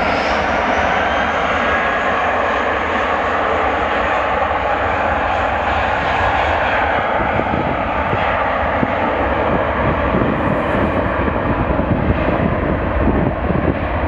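Jet airliner engines running loud and steady, with a high whine that rises early on. The low rumble grows rougher and crackles in the second half.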